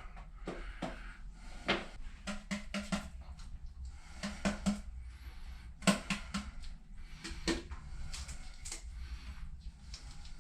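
Scattered light taps and clicks of hand work with tools and containers, irregular and unhurried, over a low steady hum.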